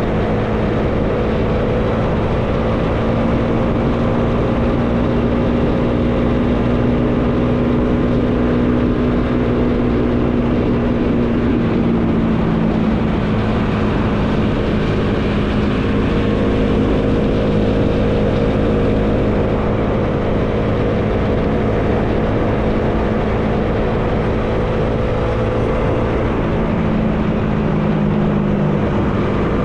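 Bajaj Dominar 400's single-cylinder engine running at a steady cruise, with wind noise over the microphone. The engine note drops slightly about twelve seconds in and changes again near the end.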